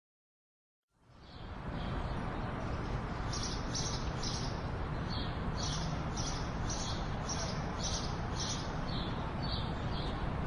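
Birds chirping over a steady outdoor background hiss that fades in about a second in, with a run of short high chirps about twice a second through the middle.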